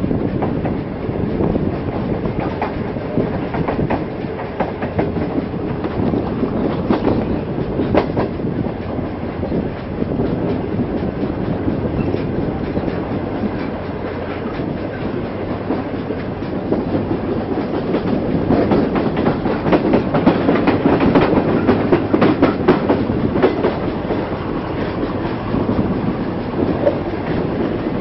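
Moving passenger train's wheels clattering over the rail joints under a steady running rumble, heard at a coach window. The clatter grows louder and busier past the middle, then eases.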